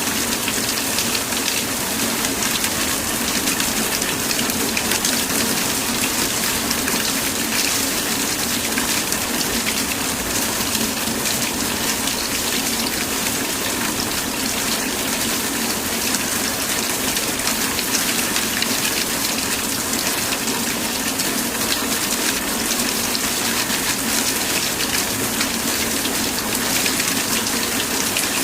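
Steady rain, an even hiss of many fine drops with no let-up.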